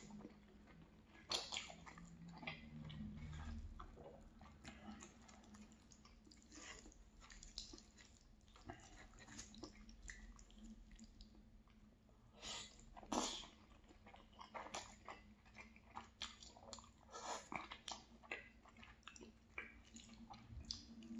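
Faint close-miked chewing of linguine in tomato sauce: irregular wet mouth clicks and smacks, with a couple of louder clicks a little past halfway. A fork twirling the pasta in the pan adds light scraping.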